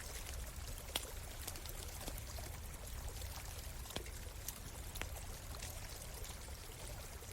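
Stream flowing steadily, with sharp pops and crackles of a wood campfire scattered over it; the loudest pop comes about a second in.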